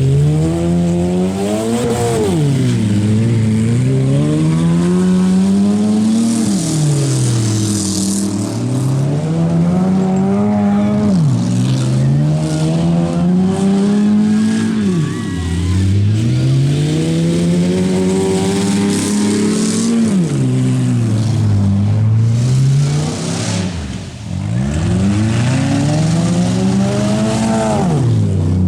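Demolition derby compact cars' engines revving hard, the pitch climbing and dropping again and again as the cars rev and back off between hits, with occasional sharp knocks.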